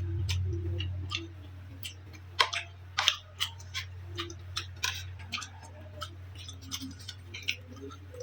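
A person eating close to the microphone: irregular wet clicks and smacks of chewing, a few louder near the middle, over a steady low hum.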